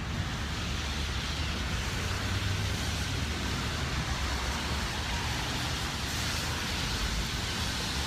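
Steady city street noise: traffic on wet roads, a continuous hiss over a low rumble.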